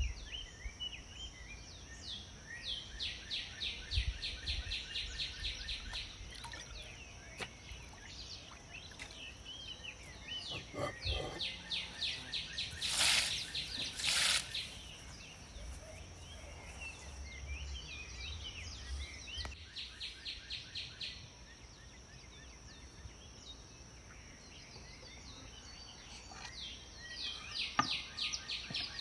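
Outdoor countryside ambience: songbirds singing in runs of rapid repeated high notes, over a steady high-pitched insect drone. Two short bursts of hissing noise about halfway through.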